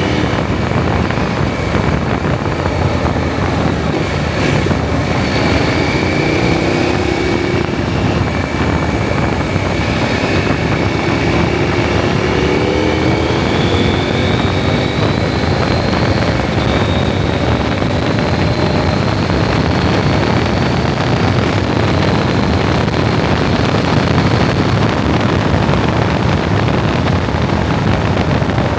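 KTM 790 Adventure's parallel-twin engine running under way, its pitch climbing and settling as the revs change, under steady heavy wind noise on the microphone.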